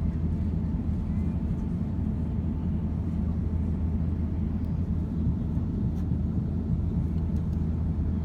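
Steady low drone of an Airbus A350-900 in flight, its engine and airflow noise heard inside the passenger cabin, even throughout.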